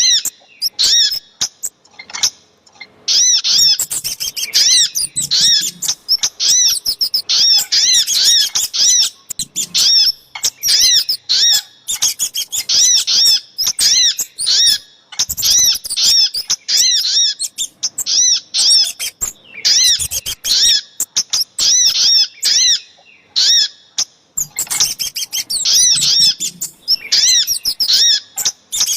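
Bird-lure recording of little spiderhunter (sogok ontong) and kemade calls: rapid runs of short, sharp, high chirps repeated several times a second, broken by brief pauses.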